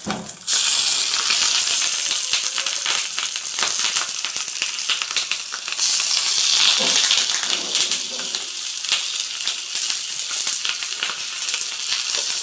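Banana-leaf-wrapped mackerel parcels sizzling in hot oil on a tawa. The sizzle jumps up suddenly about half a second in and surges again about six seconds in as further parcels are laid on the oil.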